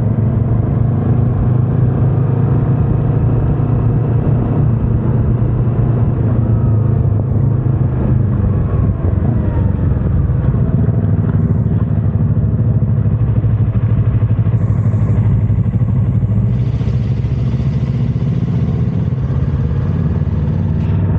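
Yamaha R25's parallel-twin engine running steadily under way, its pitch easing up and down slightly about a third of the way in.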